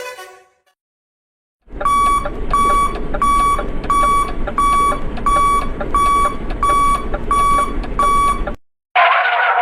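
Alarm-clock sound effect beeping about twice a second over a hiss, starting after a short silence and stopping about a second before the end. It is followed by a brief noisy burst.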